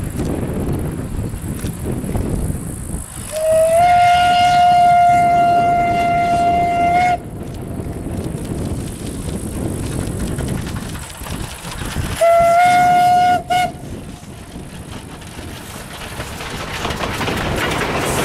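Narrow-gauge steam locomotive whistle sounding one long blast of about three and a half seconds, then a short blast about five seconds later, over the steady running noise of the steam-hauled train, which grows louder near the end as it comes closer.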